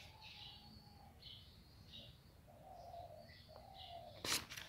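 Faint birds calling in the background: short, higher chirping notes and lower cooing notes. A brief click about four seconds in.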